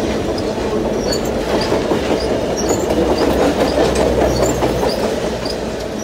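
Passenger railcars rolling past at a grade crossing: a steady rumble with wheels clattering over the rail joints, easing off near the end as the last car goes by.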